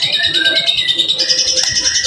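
White-rumped shama (murai batu) singing a dense, rapid-fire 'tembakan' phrase: a fast, high, even trill with short whistled notes lower down.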